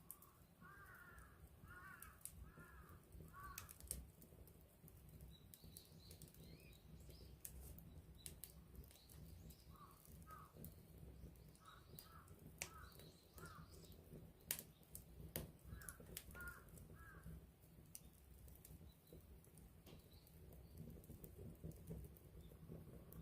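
Wood campfire burning quietly: a low rumble of flames with scattered sharp crackles and pops. Birds call in the background, in short runs of three or four similar notes, with fainter high chirps between.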